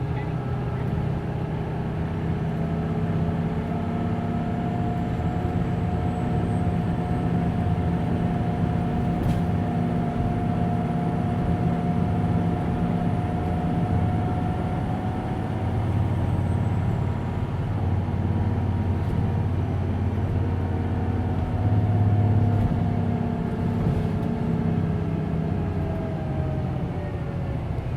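Hino Blue Ribbon City Hybrid city bus driving, heard from inside the cabin: a steady engine rumble with a drivetrain whine that slowly rises in pitch, then falls near the end as the bus slows.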